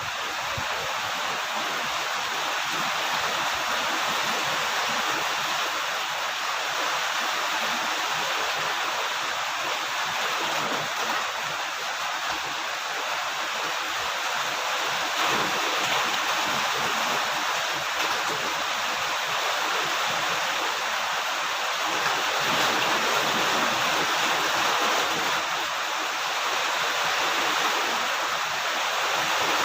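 Steady heavy rain falling, a dense even hiss of drops with no separate patters standing out.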